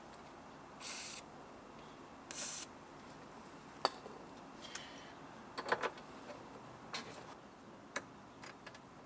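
Scattered light clicks and knocks of small air-conditioner pipe fittings being handled, with two short hissing or rustling bursts in the first few seconds.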